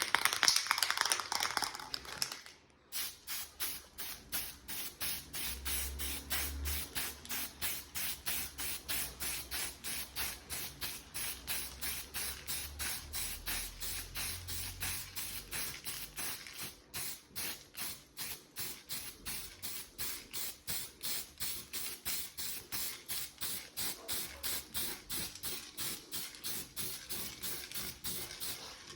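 Aerosol can of white spray paint hissing as it sprays. It sprays more steadily for the first couple of seconds, then goes on in rapid short bursts, about three a second.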